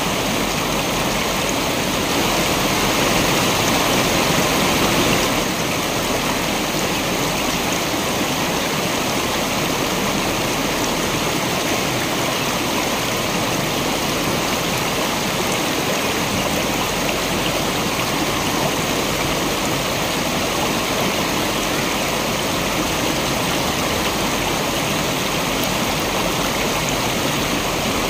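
Waterfall: a steady rush of falling water, slightly louder for a few seconds early on before settling.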